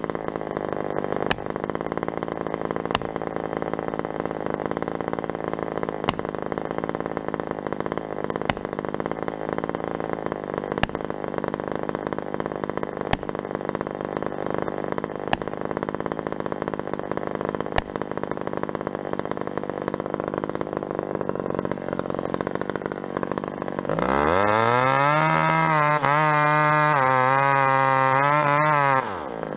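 Two-stroke chainsaw running steadily, with faint ticks every second or two. About 24 seconds in it revs sharply to high speed, holds there for about five seconds with the pitch wavering, then drops back off just before the end.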